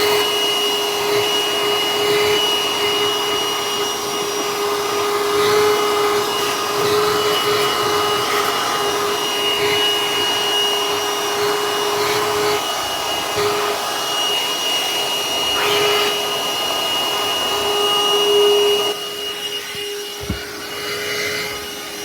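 Hercules 20V cordless handheld vacuum running steadily, a constant motor whine over the rush of air, with a few light knocks as it is worked over the surfaces; the sound eases a little near the end.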